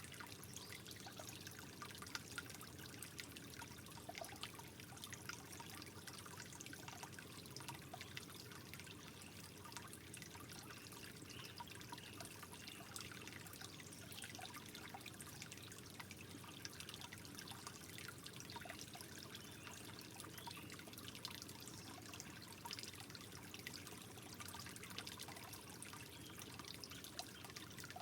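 Soft water trickling steadily, with many small droplet splashes running through it.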